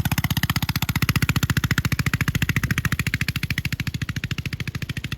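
Mini bike's single-cylinder 212cc Predator engine running under way, a fast, even chug of firing pulses that barely changes in pace.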